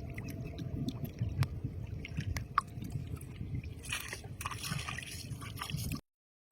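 Shallow lake water and mud being disturbed: sloshing and squelching with many small clicks and drips, a little busier about four seconds in. It stops dead just before the end.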